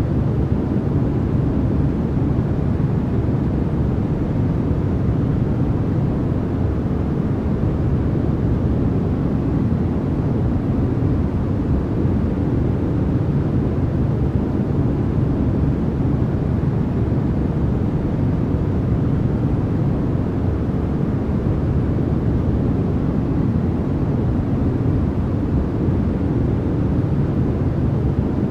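Continuous synthetic noise track, unchanging throughout, sold as white noise but with most of its weight in the bass, so it sounds like a deep, soft rushing hiss rather than a bright one.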